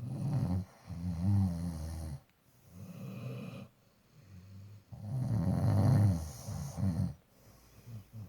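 Labrador retriever snoring: a run of loud, rasping snores, each one to two seconds long, with short quiet pauses between breaths.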